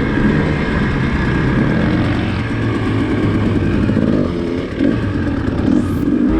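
Dirt bike engine running under way, its note rising and falling with the throttle.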